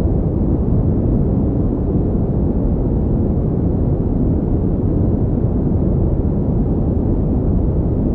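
Steady synthetic pink noise: an even, unchanging rushing sound, heavier in the low end than in the high.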